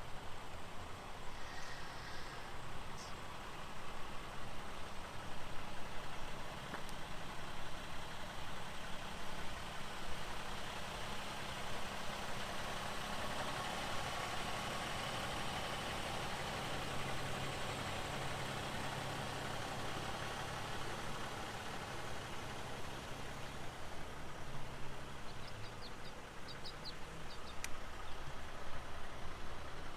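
A motor vehicle engine running steadily with a low hum over an even background of noise, with a few faint high chirps near the start and again near the end.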